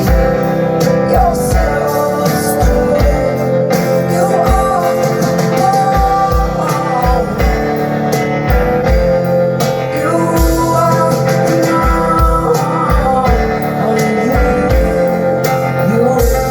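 Live band music: guitar over a steady kick-drum beat, about two beats a second.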